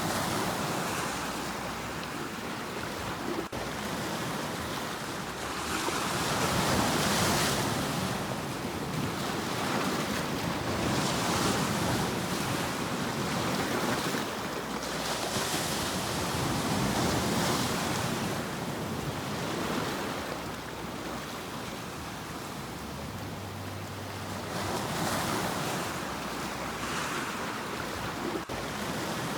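Sea waves breaking and washing on a shore, the surf swelling and receding every few seconds.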